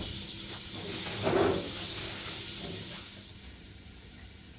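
Steady hiss, with a short louder sound about a second and a half in; the hiss drops quieter after about three seconds.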